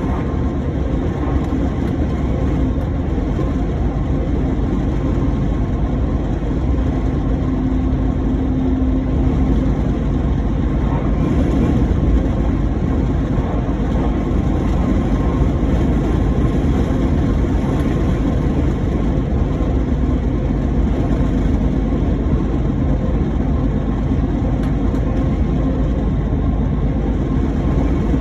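Heavy truck on the move: steady engine drone and road noise, with a faint steady hum, unbroken throughout.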